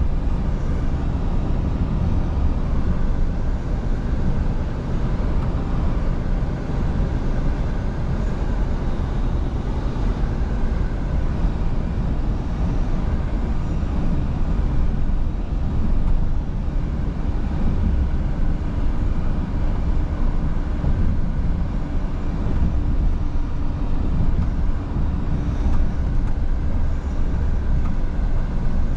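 Scania V8 truck cruising on a motorway: a steady low engine drone mixed with road and tyre noise, with a steady hum coming in a little more clearly about halfway through.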